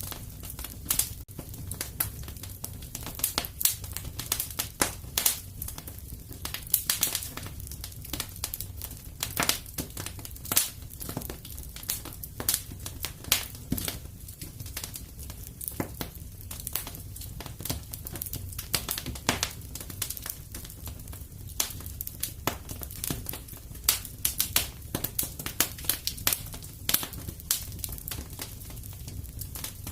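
Wood fire crackling in a fireplace: many irregular sharp pops and snaps over a low, steady rumble of the flames.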